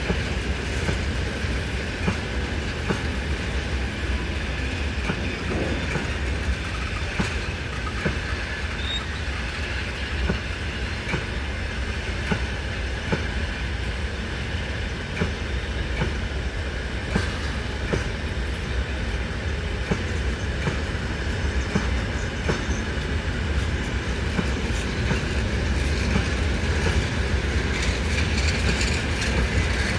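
Freight train wagons rolling past: a steady, heavy rumble with wheels clicking over rail joints throughout, and a faint high wheel squeal.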